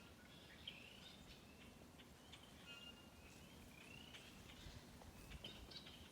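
Faint bird calls: scattered short rising chirps and brief whistles.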